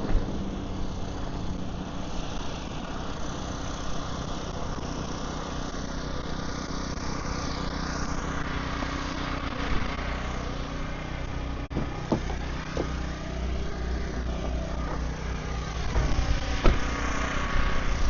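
An engine running steadily at idle, with a few short knocks about two-thirds of the way through and near the end.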